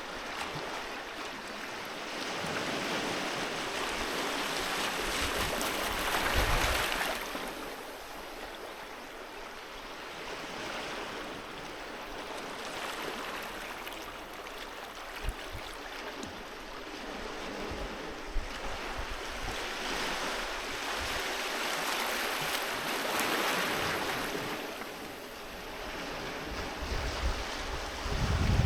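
Sea waves breaking and washing on a beach, in slow surges that build and recede every several seconds, the biggest about six seconds in and again past twenty seconds, with low buffeting of wind on the microphone now and then.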